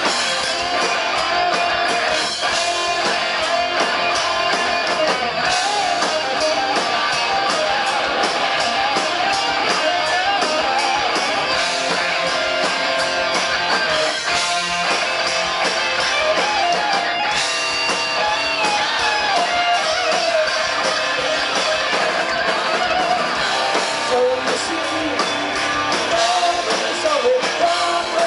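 Live rock band playing loud, steady amplified music, with electric guitar to the fore over a drum beat.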